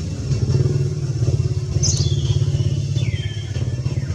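Motorcycle engine running steadily at idle with a fast pulsing beat. Two short high squeaks, falling in pitch, sound over it about two and three seconds in.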